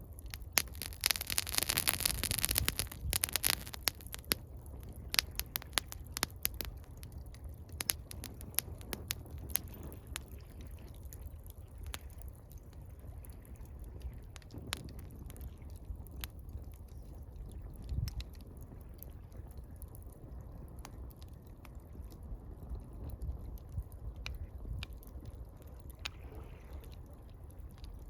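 Wood campfire crackling with frequent sharp pops and snaps, with a dense, hissing flurry of crackles in the first few seconds. Underneath is a low, steady wash of gently lapping water.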